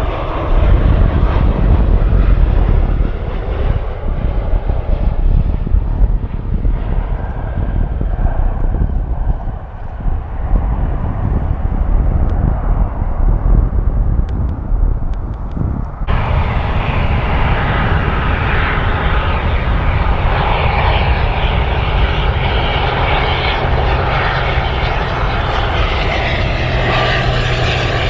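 Airliner engines running loud with a deep rumble as a plane passes on the runway. About sixteen seconds in, the sound switches abruptly to a brighter, hissing engine noise.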